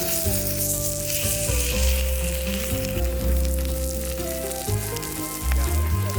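Hamburger steak patties sizzling and frying in a hot pan, a steady hiss.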